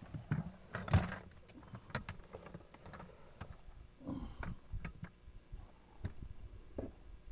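Irregular knocks and light clinks, the loudest about a second in.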